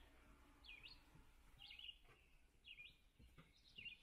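A bird calling faintly over near-silence: one short, high chirp that sweeps down and back up, repeated about once a second, four or five times.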